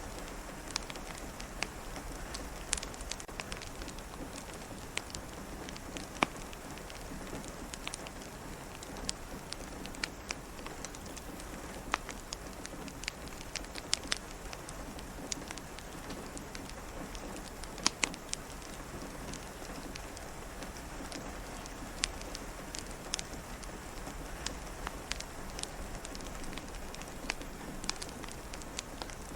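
Steady rain pattering, mixed with a crackling wood fire that gives irregular sharp pops and ticks.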